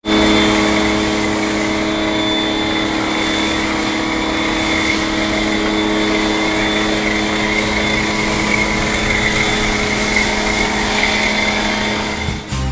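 A machine running steadily, a constant hum with a higher whine over a noisy hiss, cutting off abruptly just before the end.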